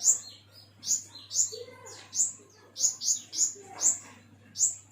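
A pentis kumbang songbird singing a quick series of about ten sharp, high notes, each sliding down in pitch. A faint steady hum sits underneath.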